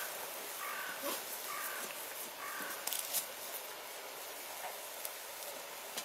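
Wood campfire burning with a steady hiss and a few sharp crackles, while short harsh calls sound a few times in the first three seconds.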